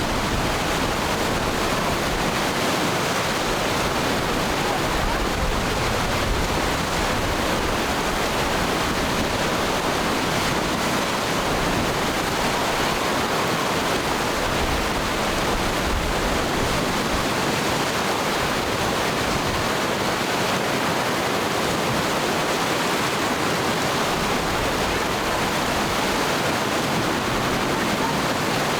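Rapids of a glacial river at high flow, water rushing in a steady, dense roar with no breaks.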